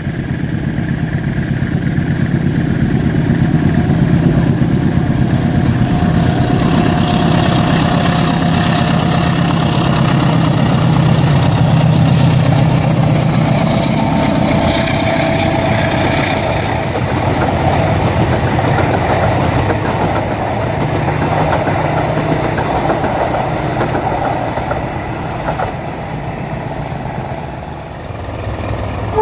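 Diesel locomotive-hauled passenger train passing: a steady low engine rumble that builds over the first few seconds, with the rolling noise of the carriages and brief thin high tones in the middle.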